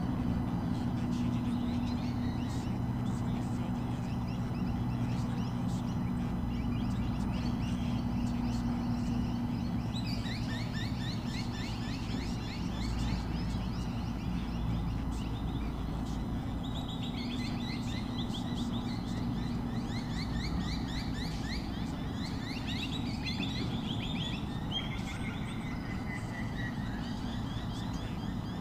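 A bird calling in rapid runs of quickly repeated chirps, several runs of a few seconds each from about a third of the way in, over a steady low engine-like hum.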